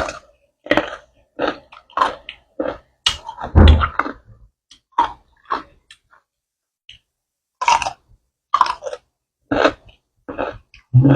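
Close-miked crunchy chewing of crisp pickled mango: irregular wet crunches with a pause of about two seconds midway.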